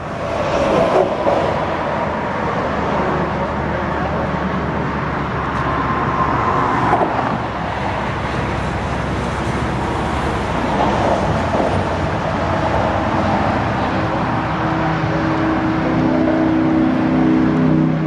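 Steady highway traffic: cars passing close by, with an engine's hum growing louder over the last few seconds as a vehicle approaches.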